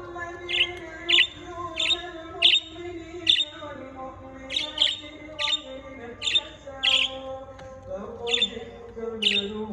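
Small pet birds giving short, sharp chirps, over a dozen, about one or two a second. Underneath runs a quieter, lower pitched sound held in notes that change every second or two.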